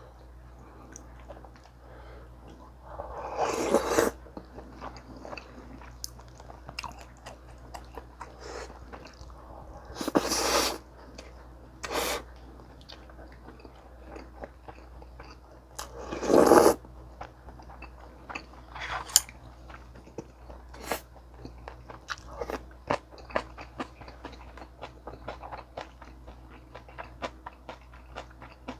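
Close-miked eating: steady chewing with crisp crunches and many small mouth clicks. Several louder bites stand out, about 4, 10 and 16 seconds in.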